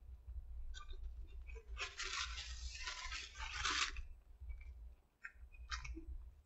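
A person chewing a mouthful of burger close to the microphone: soft scattered mouth clicks and smacks, with a louder rustling hiss for about two seconds in the middle.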